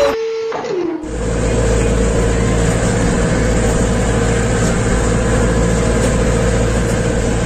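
A motor running steadily: a constant mid-pitched whine over a low rumble and hiss that comes in about a second in.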